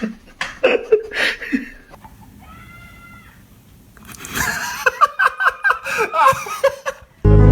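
A person laughing in short repeated bursts through the second half, after a couple of seconds of clicks and a brief faint call. Loud music cuts in suddenly just at the end.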